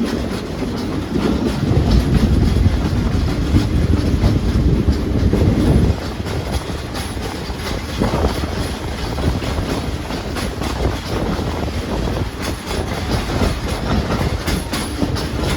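Steam excursion train running along its track, heard from aboard: a steady low rumble of the cars on the rails, heavier for the first several seconds, then easing.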